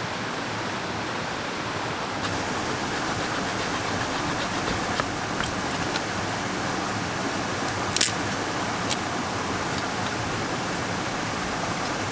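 Mountain stream water rushing steadily, with a few sharp clicks over it, the loudest about eight seconds in.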